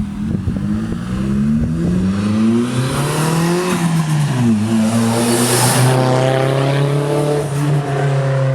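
Car engine accelerating, its pitch rising for about three and a half seconds, dropping at a gear change, then running at a steady pitch.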